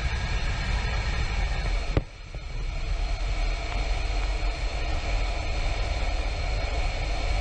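F-16 fighter jet's engine noise, a steady deep rumble. About two seconds in there is a sharp click and a brief drop in level before it returns.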